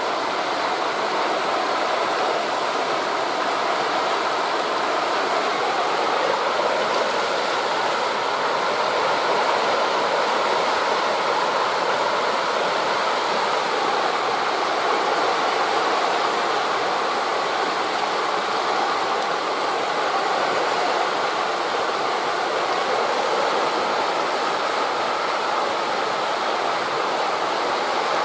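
Steady rushing noise of wind through forest leaves mixed with waves breaking on a beach, even and unbroken.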